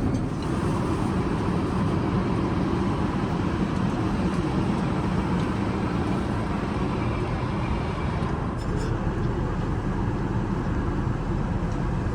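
Steady airliner cabin noise inside an Airbus A380, an even rush with a low hum and a few faint ticks about eight seconds in.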